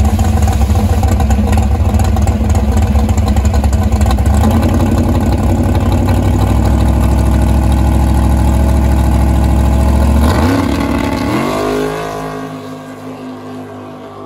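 A drag car's engine running loud and steady on the start line. About ten seconds in it launches: the pitch climbs quickly as the car pulls away down the strip, and the sound fades.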